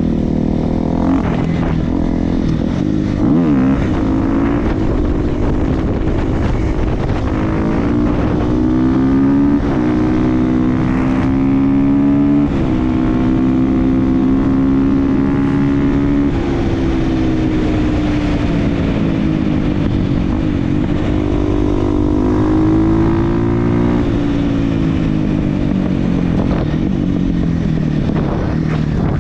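Supermoto motorcycle with an FMF aftermarket exhaust being ridden, its engine pitch rising and falling with the throttle and gear changes. It holds high revs for a few seconds about midway, then drops back.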